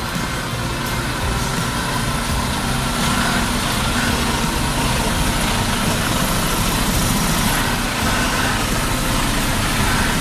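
A heavy vehicle's engine running steadily, with a low rumble under a broad, even noise.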